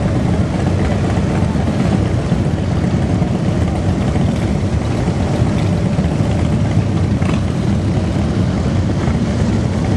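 Massed motorcycle engines running in a dense, steady rumble as a large group of bikes rides past.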